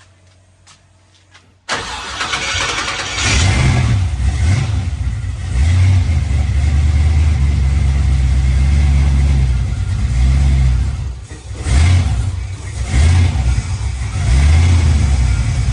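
Aluminum 6.0-litre LS V8 in a 1965 Chevy Nova catching with a little throttle about two seconds in, then running loud and uneven, its level surging and sagging and dipping twice near the end. It is a first start on a freshly fitted Holley Terminator Max fuel injection that is still being set up.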